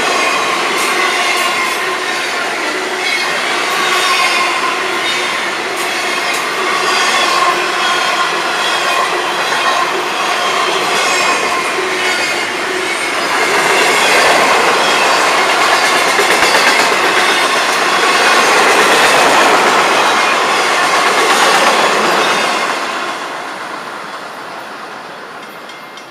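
Freight cars of a long Florida East Coast freight train rolling past, wheels clattering on the rails with a steady high wheel squeal. The noise grows louder in the middle, then fades over the last few seconds as the train goes by.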